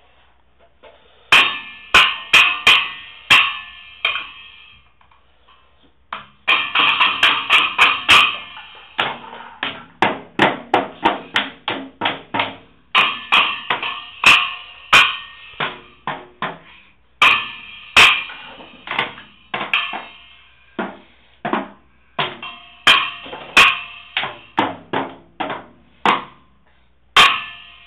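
A small child banging on a drum kit: uneven, unsteady strikes in flurries with short pauses between them, each hit ringing briefly.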